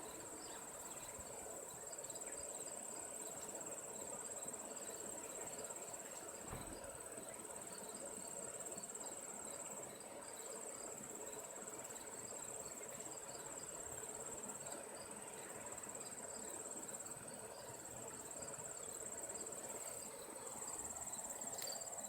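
Steady chorus of insects: a continuous high, finely pulsing trill like crickets, with faint short chirps scattered through it.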